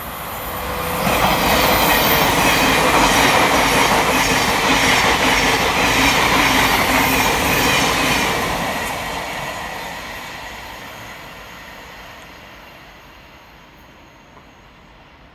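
Thameslink Class 700 electric multiple unit passing through at speed: a rush of wheels on rail that rises sharply about a second in, with a run of regular wheel clacks over the rail joints. It holds loud for about seven seconds, then fades away as the train recedes.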